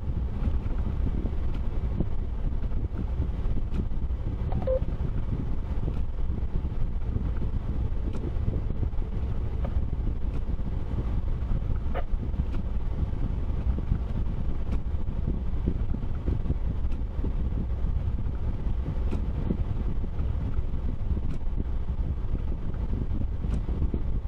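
Steady low rumble of a vehicle being driven, road and engine noise with no let-up.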